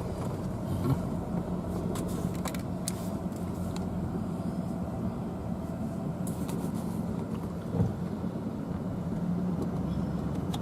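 An engine running steadily with a low hum, with scattered faint clicks.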